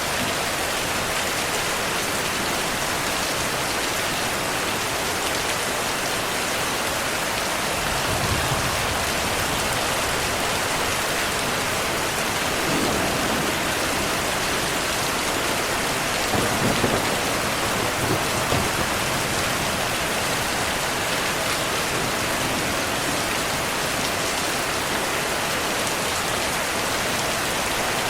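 Steady heavy rain falling on a surface, with soft low rumbles of thunder rolling in several times in the middle.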